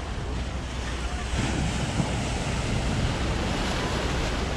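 Ocean surf washing in, with wind rumbling on the microphone; the wash swells up about a second and a half in.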